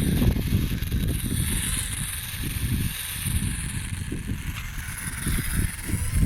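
Wind buffeting the microphone in uneven gusts, with the faint high whine of the radio-controlled model airliner's electric propeller motors swelling and fading as the plane flies past.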